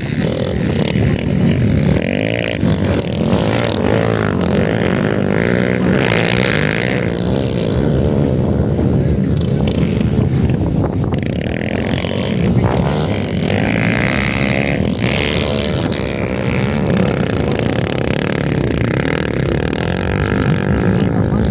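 Motocross bikes racing, several engines revving up and down together without a break.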